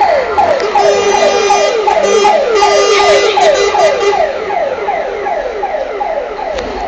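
A siren sounding in fast repeated downward sweeps, about three a second. A long steady horn blast sounds over it from about one to four seconds in.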